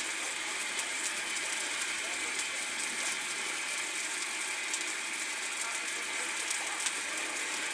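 Steady sizzling with scattered crackles of food frying in hot fat: burgers and sausage on a flat-top griddle, and fries in a deep fryer.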